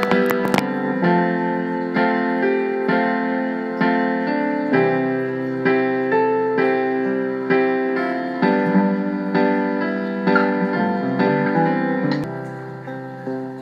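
Instrumental song accompaniment led by electric piano or keyboard, playing sustained chords with a steady beat, fading out near the end.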